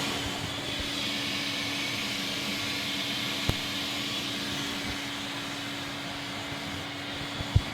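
Fairfax vacuum cleaner running steadily with a constant hum, with a brief knock about halfway through and a sharper one near the end.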